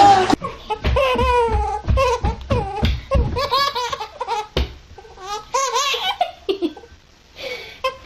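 A person laughing hard in a run of short bursts, loudest in the first half and tailing off after about five seconds.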